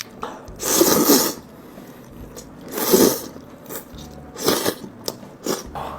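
Someone slurping hand-pulled Henan braised noodles: three loud slurps about a second and a half apart, with smaller mouth noises between them.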